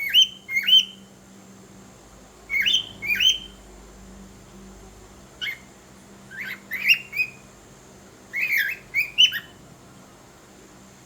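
Cockatiel giving short chirping whistle calls in small clusters of two to four, each note quickly rising and falling, with short pauses between clusters.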